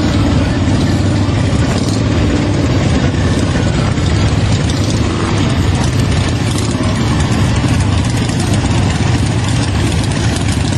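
Motorcycle engine running steadily at a low, even rumble.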